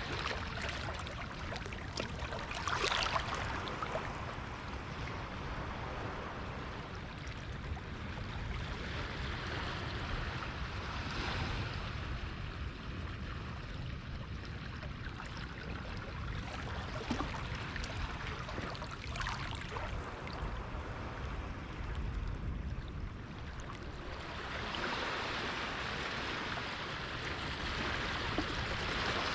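Harbor water washing and splashing against the shore, a steady wash with a few louder surges.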